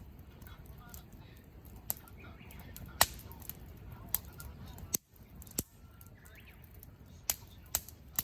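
Firewood burning in a campfire, crackling with sharp pops at irregular intervals over a low hiss of the fire. The loudest pop comes about three seconds in.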